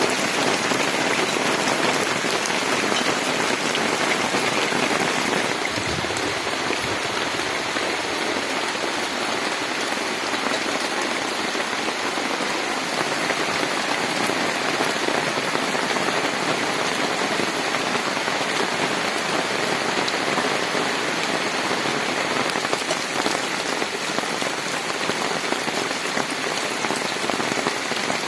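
Heavy rain pouring down at night, a dense, steady hiss of rain with no break.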